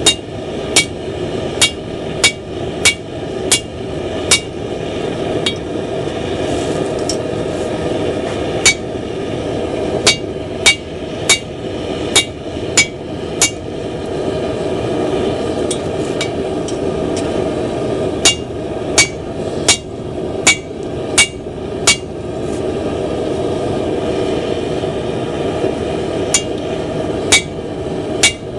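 Blacksmith's 2-pound cross-peen hammer striking hot mild steel on an anvil, forging an axe head. The blows come in runs of about one and a half a second, each with a bright metallic ring, with a few pauses between runs and a steady rushing noise underneath.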